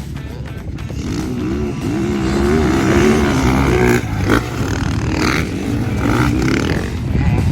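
Motocross dirt bike engine revving hard, its pitch rising and falling with the throttle, with a brief drop about four seconds in.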